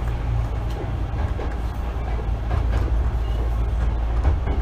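Hankyu 8000 series electric commuter train heard from inside car 8108 while running: a steady low rumble of wheels on rail with scattered short clicks.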